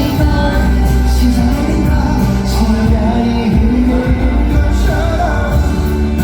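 K-pop song performed live in a concert hall: loud backing track with heavy bass under male singing.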